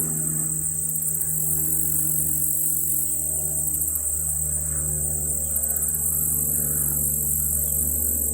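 A steady, high-pitched chorus of insects, pulsing finely and without a break. Beneath it runs a low, steady drone made of several tones.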